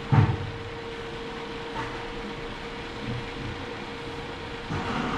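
A low thump just after the start, then a steady machine hum in the shop, with a few faint knocks of transmission parts being handled.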